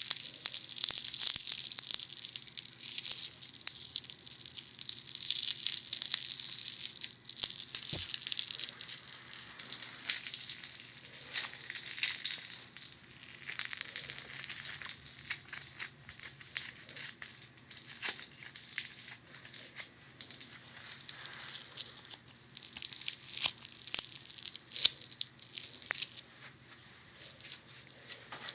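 Funny Foam pressed and worked against the ears of a binaural dummy-head microphone: a dense, fizzy crackle of many tiny pops. It is louder for the first several seconds, softer in the middle, and louder again about 23 to 26 seconds in.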